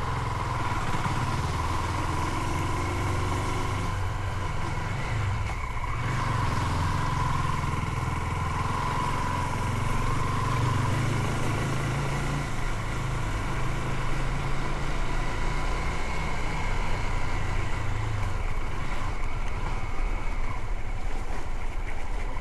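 Motorcycle engine running steadily while riding: a low hum with a steady high whine over it, a little louder in the second half.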